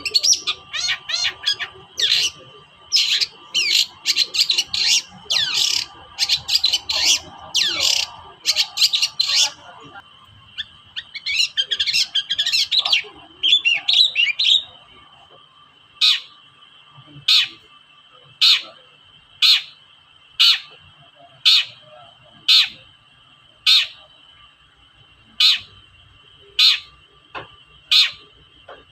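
Long-tailed shrike calling: a fast, harsh, varied chatter for about the first half, then single short harsh calls repeated about once a second.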